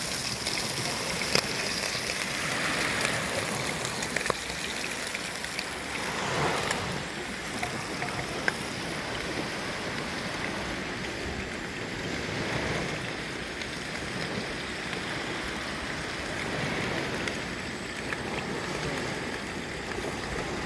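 Sea waves washing on the shore, a steady wash that swells every few seconds, with a few small clicks.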